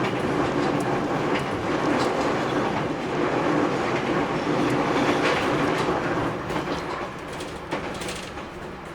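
Interior running sound of a JR Kyushu 811 series electric multiple unit: steady rumble of the wheels on the rails, with scattered clacks from rail joints. It grows quieter over the last few seconds.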